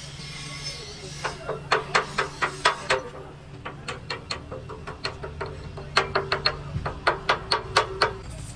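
Rapid hammer blows on metal, about four a second, in two loud runs with lighter blows between, each strike ringing briefly, over a steady low hum.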